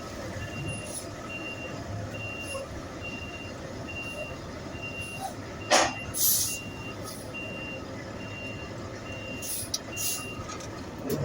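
Garbage truck's reversing alarm beeping steadily, a little faster than once a second, over engine rumble, with a sharp knock about six seconds in.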